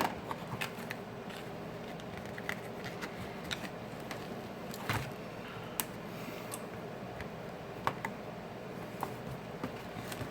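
Scattered small clicks and scrapes of a business card and tool being worked under a glued-in phone battery to pry it up, the battery stuck fast in its adhesive, over a steady low hum.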